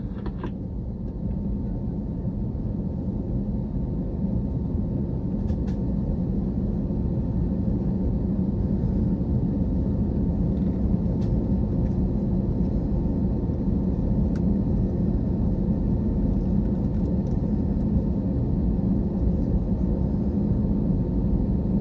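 Cabin noise inside an Airbus airliner: a steady low rumble of the jet engines and airflow, with a faint steady hum, gradually getting louder over the first several seconds and then holding level.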